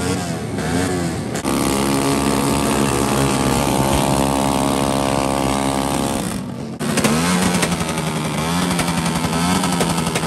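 Suzuki Raider 150 motorcycle engines at high revs: one engine is held at steady high revs for about five seconds during a rear-tyre burnout. It breaks off suddenly, and then a motorcycle is revved up and down in quick blips.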